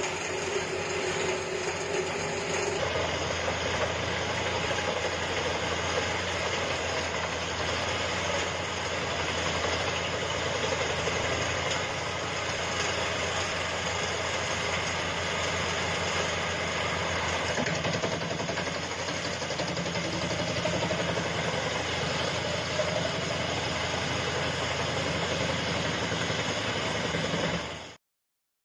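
Forestry wood chipper running steadily, a dense engine-and-machinery drone with a low rumble. It fades out shortly before the end.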